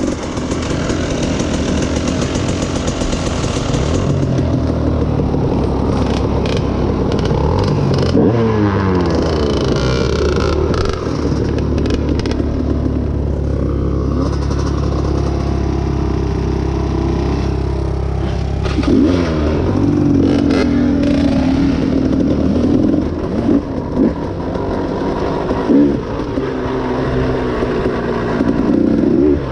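Dirt bike engine running on a trail ride, its pitch rising and falling as the throttle is opened and closed, with a steadier stretch in the middle.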